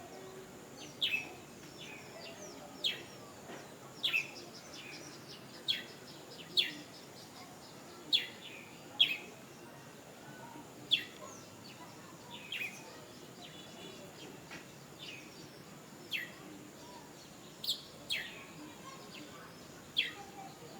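A cirecet, a small songbird, calling in sharp, short, downward-sweeping chirps, one every second or two, sometimes in quick pairs. A faint steady high tone runs underneath.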